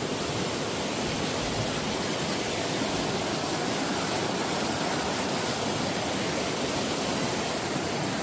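Steady, even rush of flowing water from a mountain creek or cascade.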